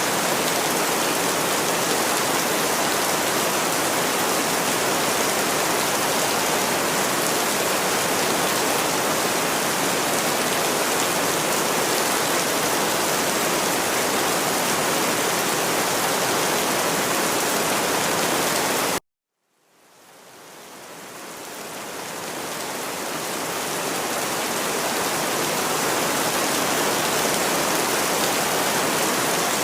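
Steady, dense rain noise that cuts out abruptly about two-thirds of the way through, drops to silence for about half a second, then fades back in over several seconds to its full steady level: the join of a looped rain track.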